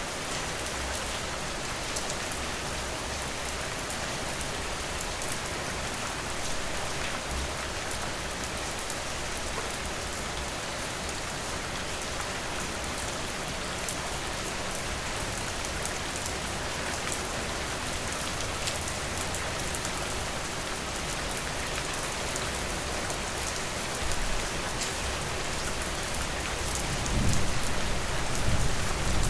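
Steady rain falling on a porch, with many small drop ticks. A low rumble swells up twice near the end.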